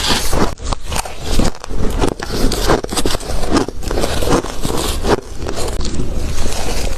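Close-miked biting and crunching of spoonfuls of shaved ice: a rapid, irregular run of crisp crunches.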